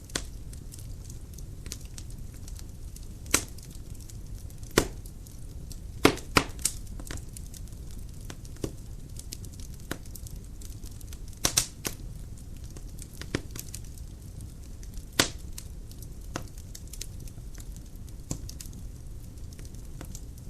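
Dry firewood burning in a fireplace: a low steady rumble of flame with sharp, irregular crackles and snaps from the burning logs, several of them loud.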